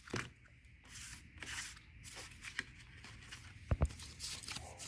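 Tarot and oracle cards being shuffled and handled: faint, irregular papery rustles and slides, with a soft knock about three-quarters of the way through.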